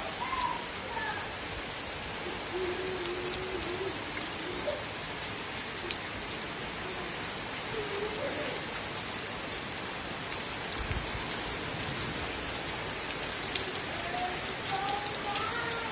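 Heavy rain falling steadily, with individual drops ticking close by.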